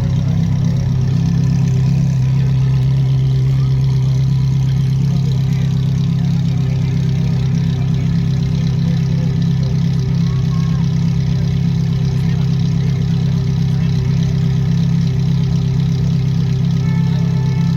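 Car engine idling steadily at a constant low pitch, with no revving.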